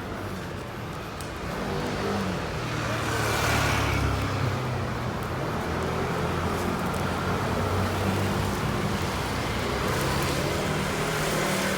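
Street traffic: a motor vehicle's engine hums steadily close by, with a swell of road noise about three to four seconds in as it passes.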